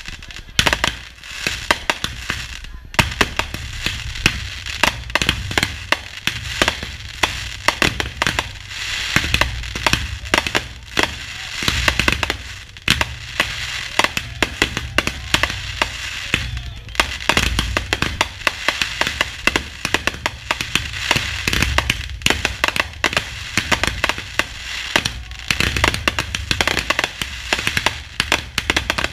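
Fireworks finale: a continuous barrage of aerial shells bursting, with many sharp bangs and crackles overlapping in quick succession over deep booms.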